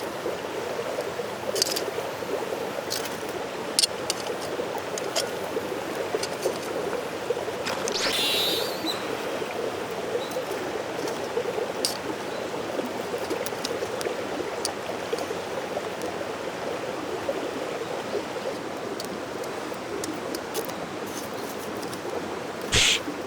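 Mountain stream flowing steadily, with scattered sharp crackles from a wood campfire. There is a brief hiss about eight seconds in and a louder knock near the end.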